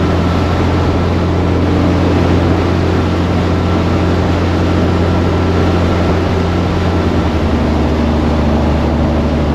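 Truck engine running under way, heard from inside the cab: a steady low drone with a faint steady whine above it. The drone's pitch shifts slightly near the end, and the whine fades out.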